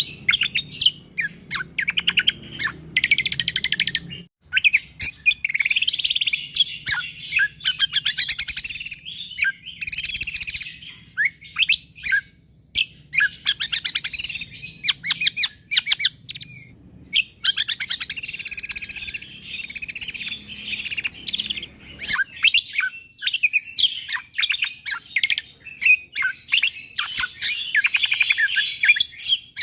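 Cucak kombo (kecial kombok) songbird singing nonstop: dense, rapid runs of high chirps and trills in tightly packed bursts with only brief pauses. A faint low hum sits under the song and stops near the end.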